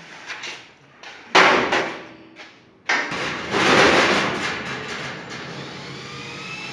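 A loud knock, then a square industrial exhaust fan starting up: a sudden rush of air that settles to a steady noise, with a faint rising whine as it gathers speed.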